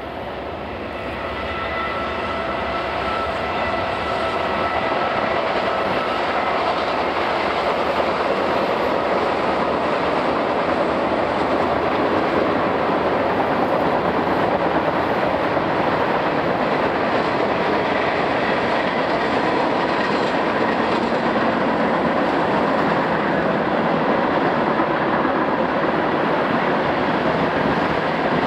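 Freight train of covered hoppers and tank cars rolling past: a steady rumble and clatter of wheels on rail that swells over the first few seconds as the train arrives, then holds.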